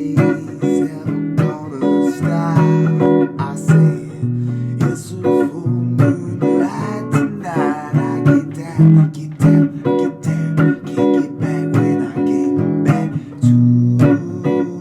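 Guitar improvising blues-style phrases: picked single notes and strummed chords, with a wavering bent note with vibrato about halfway through.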